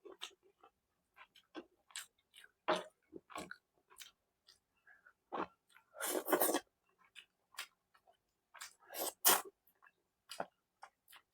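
Close-up chewing and wet mouth sounds, a series of irregular smacks and bites with a few louder bursts about six and nine seconds in.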